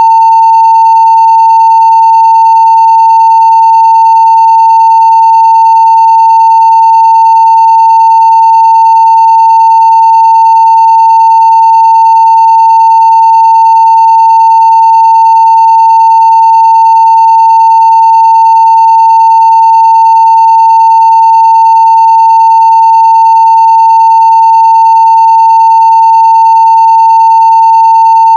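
A continuous 900 Hz sine-wave test tone at full scale (0 dB), holding one steady pitch and level.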